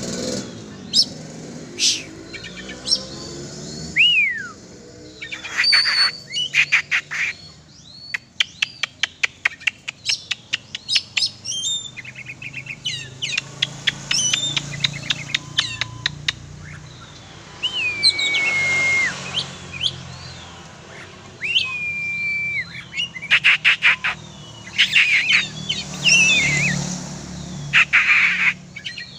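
Oriental magpie-robin (kacer) singing a varied song: quick trills of sharp chirps mixed with clear whistles that slide down in pitch, some held briefly at the bottom.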